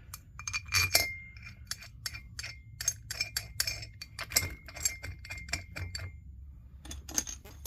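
Steel differential parts and bolts clinking and rattling against one another by hand: many quick, sharp metallic clicks with a ringing note, pausing briefly near the end before a few more clicks.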